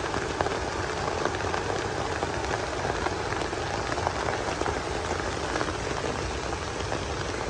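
Steady rain falling: a constant hiss sprinkled with many small ticks of individual drops.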